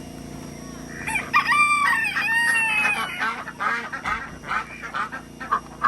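A rooster crows once for about two seconds, a little over a second in, its call holding steady and then falling away. Short clucking calls from chickens follow.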